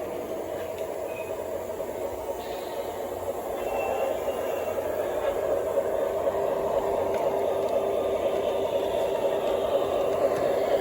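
O gauge model train running on the track, a steady motor hum with wheel rumble that grows louder from about three seconds in.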